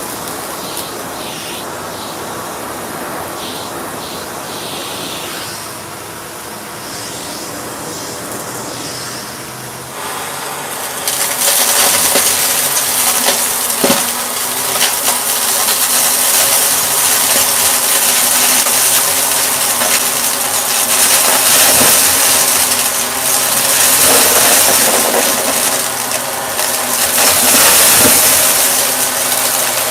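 Shark vacuum cleaner running steadily. About a third of the way in it steps up, louder and hissier, with its motor hum underneath.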